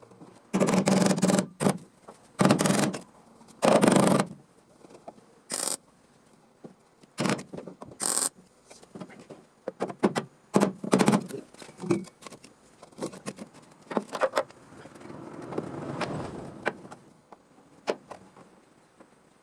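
Scraping on car-body sheet metal in a series of short strokes, three long ones in the first four seconds, then shorter, quicker ones, and a longer, softer scrape near the end.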